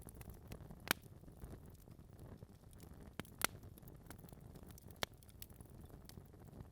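Log fire burning in a fireplace: a low, steady rumble of flame with sharp wood pops and crackles, the loudest about a second in, two more close together at about three and a half seconds, and another around five seconds.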